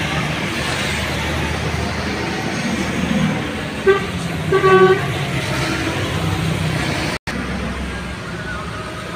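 A vehicle horn sounds twice, a short honk and then a slightly longer one, over a steady wash of heavy rain and passing traffic.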